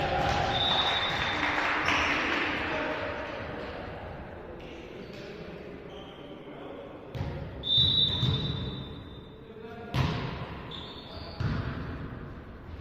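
Volleyball being struck and bouncing on a gym court, several sharp hits a few seconds apart, with players' voices in between.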